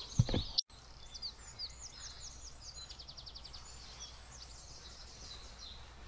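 Small songbirds singing against quiet outdoor background: short chirping calls, a fast trill about halfway through, then more scattered calls.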